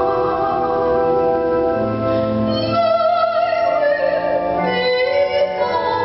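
Church music: a singer holding long notes with vibrato over steady instrumental accompaniment.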